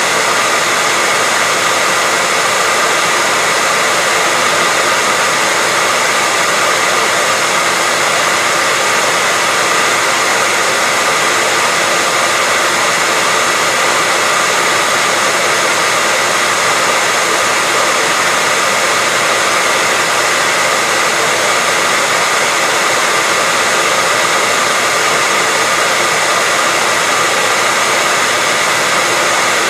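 Hair dryer running continuously at a steady speed: an even, unbroken rush of air with a faint motor whine.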